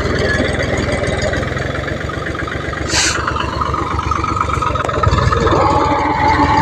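Tractor engine running steadily with a fast low chugging beat. There is a short hiss about three seconds in, and a higher whine joins about five seconds in.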